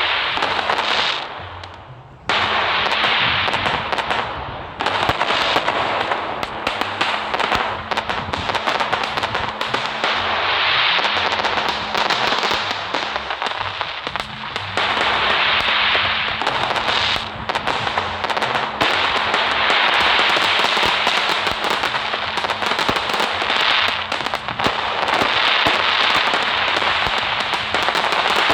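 Fireworks crackling and popping in a dense, unbroken stream of small sharp cracks, with a brief lull about two seconds in.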